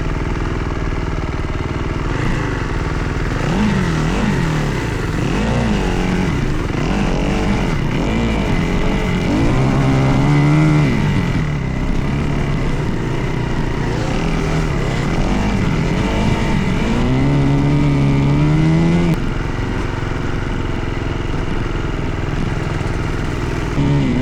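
Dirt bike engine running under riding load, its pitch rising and falling repeatedly as the throttle is worked, with two longer climbs in the middle and later part before it drops back.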